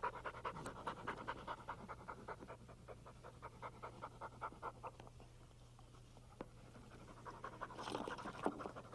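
Springer Spaniel panting rapidly, easing off in the middle and picking up again near the end.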